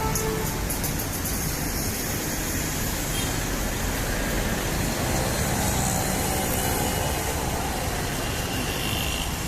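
Ford EcoSport engine running steadily, as it is kept running through an engine carbon cleaning.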